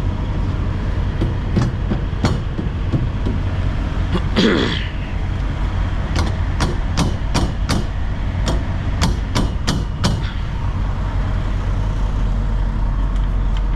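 Ratcheting cargo load bar being pumped tight across the trailer, a run of sharp clicks roughly two to three a second, with a short scraping slide before them, over a steady low hum.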